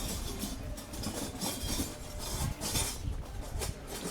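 Busy street-market crowd ambience: a murmur of many voices and general bustle, with short rustling hisses coming and going every second or so.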